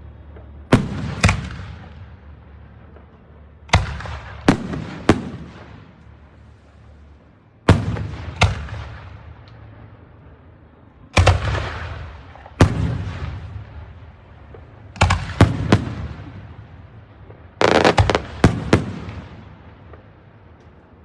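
Aerial fireworks shells bursting overhead: loud sharp bangs, singly and in quick pairs and triples, each followed by a rolling echo, coming in clusters every few seconds.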